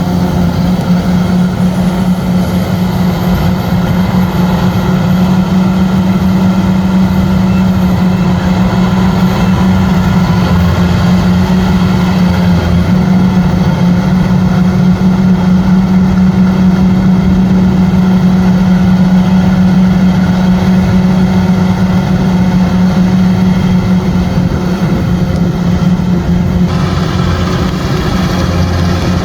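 Kubota rice combine harvester running steadily with a loud, even engine drone; the higher sounds drop away abruptly near the end.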